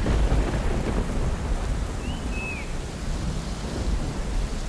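Thunder rumbling over steady monsoon rain, with a bird's short whistled call, rising then dropping at its end, about two seconds in.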